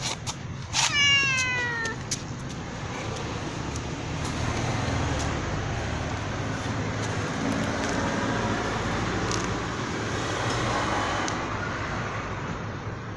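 Domestic cat meowing loudly: one long meow falling in pitch about a second in, over a steady low rumble.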